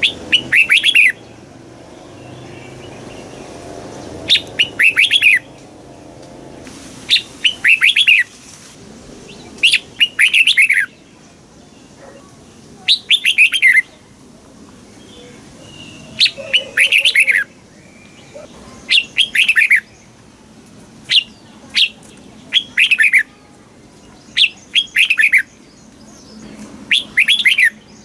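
Red-whiskered bulbul singing short, bright, chattering phrases about a second long, repeated every two to three seconds, over faint steady background noise.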